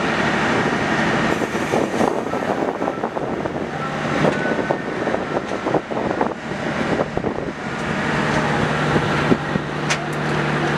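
K3 Premium economy passenger coaches rolling past, their wheels clicking and knocking irregularly over the rails, over a steady low hum.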